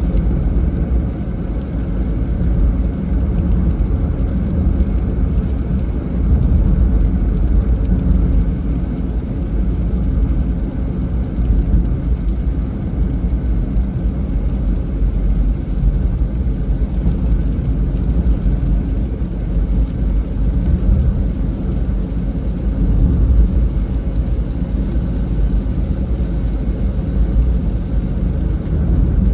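Steady low rumble of a vehicle driving on a wet road in the rain: tyre and engine noise with a fainter hiss above it.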